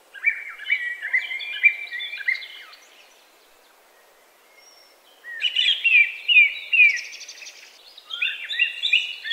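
A songbird singing three phrases of quick, downward-slurred notes, each two to three seconds long, with quiet pauses between them.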